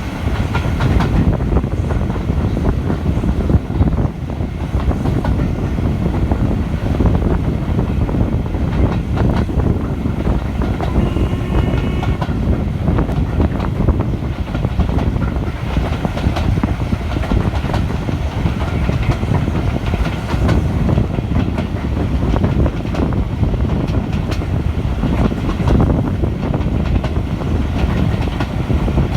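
Railway carriage running steadily along the track: a continuous rumble of wheels on rail with rhythmic clicking over the rail joints.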